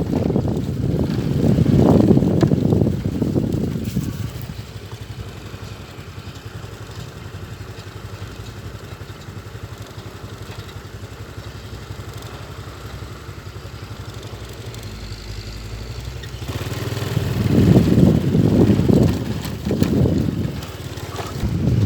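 Diesel engine of a heavily loaded Mitsubishi Fuso Fighter truck running under load, pulling almost 20 tons of sugarcane. It is loud for the first few seconds, settles to a quieter steady running, then surges loudly again in uneven pulses from about three-quarters of the way through.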